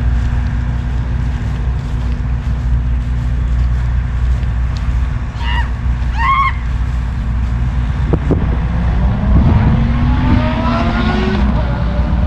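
A car engine running steadily at low revs, then rising in pitch from about eight seconds in as it accelerates. Two short chirps sound in the middle.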